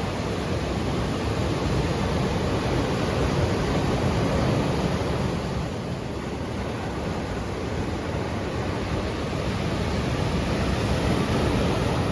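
Sea waves breaking and washing ashore: a continuous rush of surf that swells twice, about a third of the way in and again near the end, easing a little in between.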